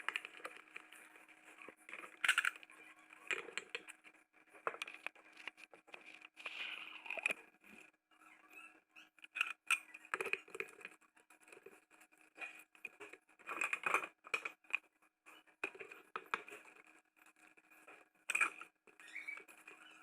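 Irregular clicks, knocks and brief scraping of objects being handled, over a faint steady hum.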